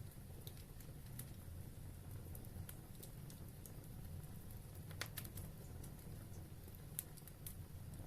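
Wood fire burning in a fireplace, with scattered sharp crackles and pops over a low, steady rumble of the flames; the loudest pops come about five and seven seconds in.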